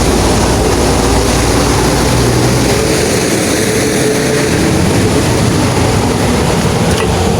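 Heavy truck engine running steadily, its low rumble easing off about three seconds in.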